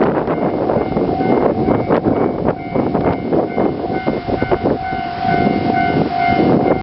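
KiHa 48 diesel railcar train passing at slow speed over a bridge, with a dense rumble of wheels on rail full of irregular clicks and knocks. From about a third of the way in, a thin steady whine sounds over it.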